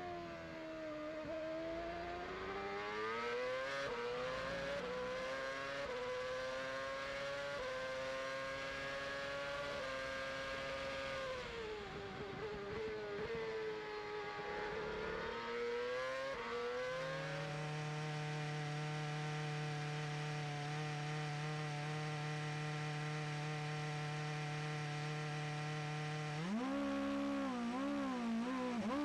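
Virgin Racing Formula One car's Cosworth V8 heard onboard, its pitch rising through the gears, dropping away, and climbing again. It then holds one steady pitch for about ten seconds before rising and wavering once more near the end.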